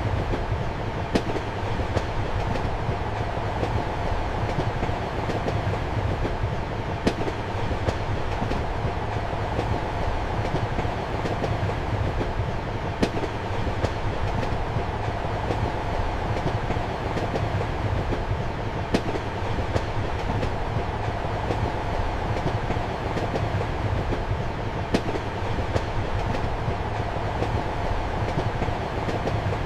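Passenger train running steadily, heard from inside a compartment: a constant low rumble and hum with sharp wheel clicks over the rail joints, the loudest about every six seconds and fainter ones between.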